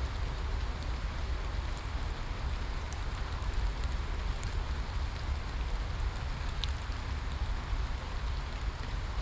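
Steady rain falling, a constant hiss with a deep low rumble beneath it and scattered sharp drop ticks on top.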